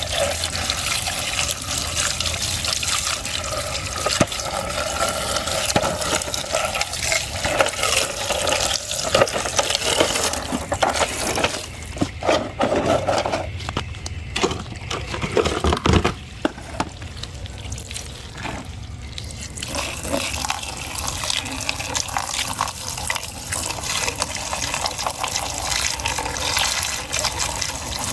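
Running water splashing, as from a tap or hose, while muddy toys are washed; the flow eases for several seconds in the middle and then comes back full.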